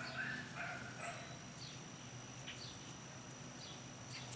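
Faint outdoor ambience with a few short distant animal calls in the first second or so, scattered faint chirps, and a thin steady high-pitched tone that starts about half a second in.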